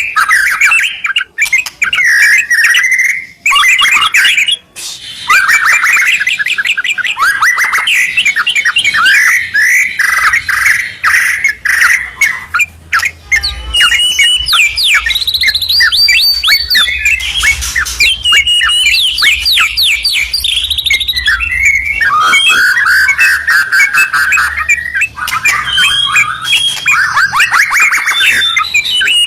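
A white-rumped shama and a yellow-vented bulbul singing loudly, with rapid, varied whistled phrases and trills following one another almost without pause.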